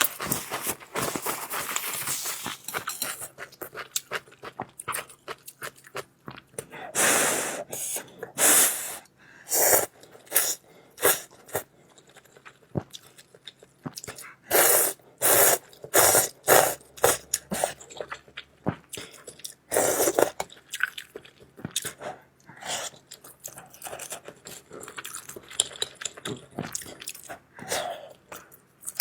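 Eating noodles: repeated slurps, some drawn out, with chewing and mouth sounds in between, in an irregular run.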